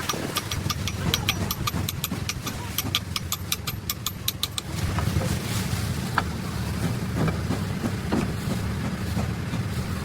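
A steady low mechanical hum, with a quick run of sharp metallic clicks for the first half, then a few scattered knocks.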